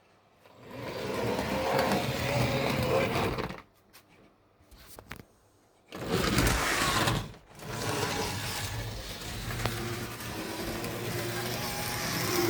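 Tri-ang OO gauge model locomotive running a train along the track with a steady motor buzz, stopping and starting while shunting: it starts about a second in, stops for a couple of seconds with a few light clicks, then starts again and keeps running.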